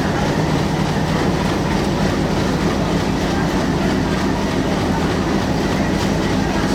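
Intercity passenger train departing and rolling past, a loud steady rumble of wheels running on the rails.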